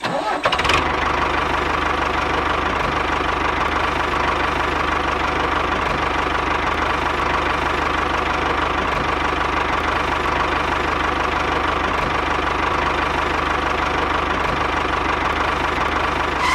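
A motor running steadily at one even speed; it starts abruptly and cuts off near the end.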